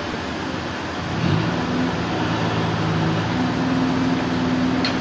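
Sawmill machinery running under an engine, a steady mechanical drone whose pitch steps up about a second in and again a little past halfway.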